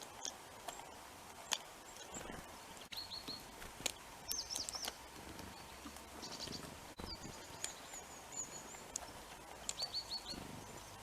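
Small tits calling at a bird feeder: short high chirps in quick runs of three to five notes, repeated every second or two, with a few sharp clicks and taps between them.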